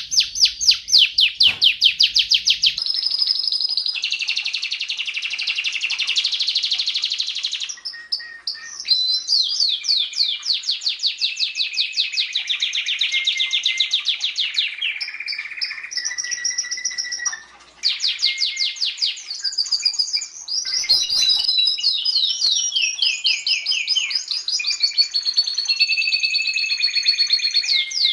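Domestic canary singing a long, continuous song of rapid trills: fast runs of repeated high notes that switch to a new trill type every second or two, with two brief breaks along the way.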